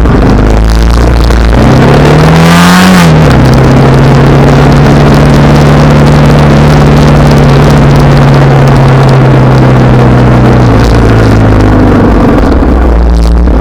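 Honda Rebel 300's single-cylinder engine pulling hard, its note climbing for about a second and then dropping at a gear change about three seconds in, after which it holds a steady cruise. A heavy low rumble, typical of wind on a riding microphone, runs under it.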